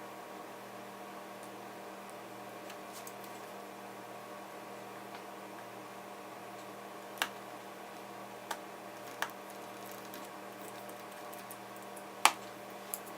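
A few small sharp clicks and taps of tools and small parts being handled on an opened laptop under repair, over a steady electrical hum; the loudest clicks come about 7 and 12 seconds in.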